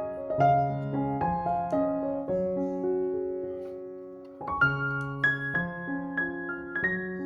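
Background piano music: a gentle melody over soft chords, with a brief pause about two-thirds of the way through before the playing resumes.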